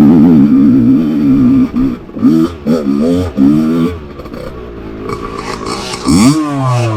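Two-stroke dirt bike engine revving unevenly under throttle, its pitch wavering quickly, then in short blips. About six seconds in it gives a sharp rev that rises and falls.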